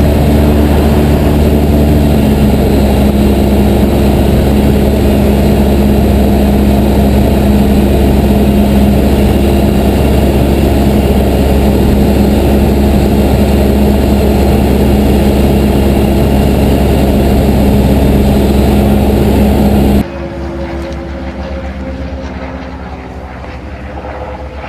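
Cessna 172's engine and propeller droning steadily, loud, with a rushing hiss over it; about twenty seconds in it drops suddenly to a quieter drone.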